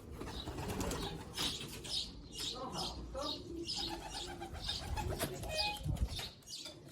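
Racing pigeons cooing in a loft, several birds at once in repeated short low coos, with scattered faint higher chirps and small knocks of birds moving about.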